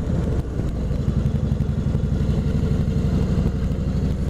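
2005 Kawasaki Vulcan 2000's big V-twin engine running steadily under way at cruising speed, a low, even pulsing beat.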